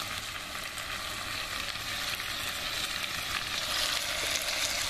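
Oxtail and onions sizzling steadily in olive oil in a cast-iron potjie pot over a fire, frying until the onions turn glassy.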